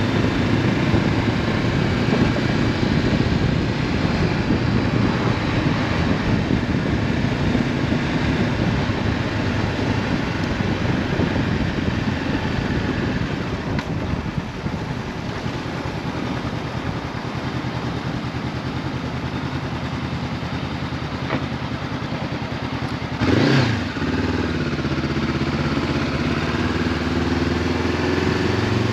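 Honda CB500F parallel-twin engine through an Akrapovic exhaust, running under way. About 23 seconds in comes a brief loud rev, rising and falling quickly, and after it the engine settles into a steadier, lower note.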